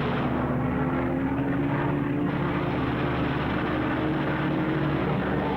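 Propeller aircraft's piston engine droning steadily, its pitch slowly rising.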